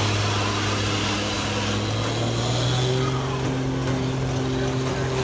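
Vehicle engine running steadily as it works around a dirt course, a continuous drone whose pitch shifts slightly about three seconds in.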